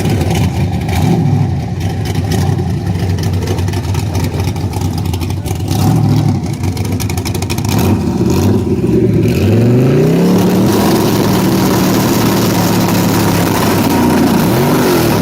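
Car engine running steadily, then revving up about nine seconds in, holding the higher revs for a few seconds and dropping back near the end.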